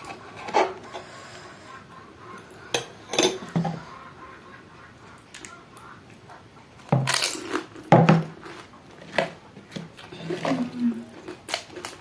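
Crisp pani puri shells cracking and crunching in a run of short, sharp crackles, with light clinks of dishes.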